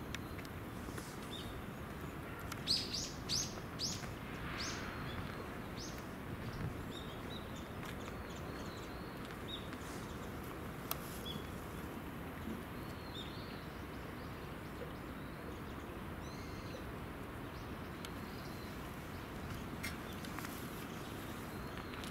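Birds chirping: a quick run of four or five sharp, high calls about three seconds in, then scattered faint chirps over a steady background hiss.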